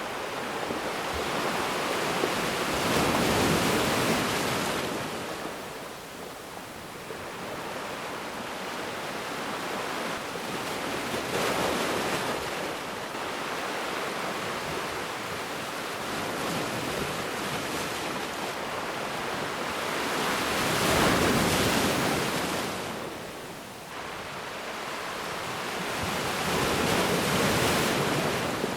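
Ocean waves breaking and washing up a beach, the surf swelling and falling back in slow surges, four larger breakers several seconds apart.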